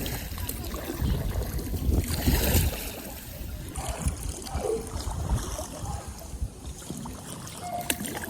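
Water splashing and lapping around an inflatable kayak as it is paddled on choppy water, with a low rumble in the first few seconds that then drops to a quieter wash.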